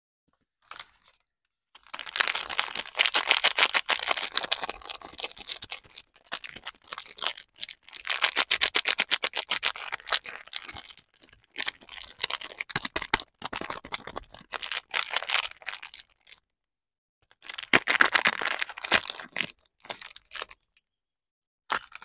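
Soap packaging being unwrapped by hand: the wrapper crinkles and tears in several bursts of rapid crackling, with short pauses between them.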